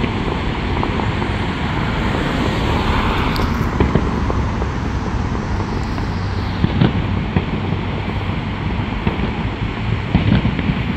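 Fireworks going off: a dense, continuous rumble of many distant bangs, with a few sharper, closer cracks about four, seven and ten seconds in.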